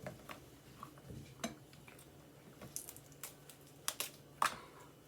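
Kitchen handling sounds as food and utensils are worked by hand: a series of irregular light clicks and taps, the loudest about four and a half seconds in.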